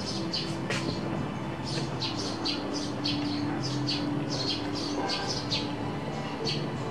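Small birds chirping rapidly and repeatedly, several short high chirps a second.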